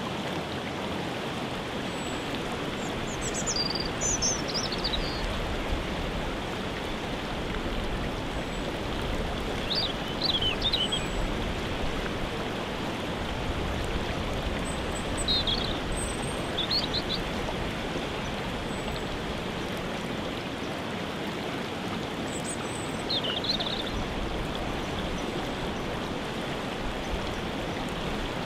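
Steady rush of a waterfall, with a songbird singing short falling phrases over it about five times.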